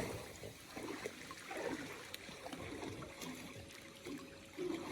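Faint, irregular trickling and lapping of swimming-pool water as a small child moves in it.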